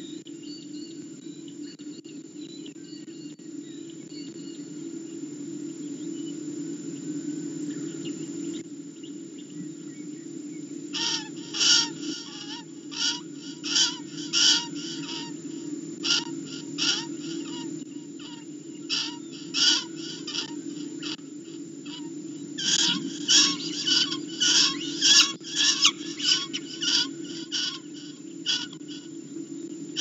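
A live captured bird giving repeated short, sharp distress screams in clusters from about eleven seconds in, over a steady low hum.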